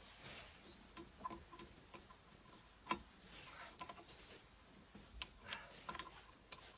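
Faint, scattered clicks and light knocks, with one sharper click about three seconds in.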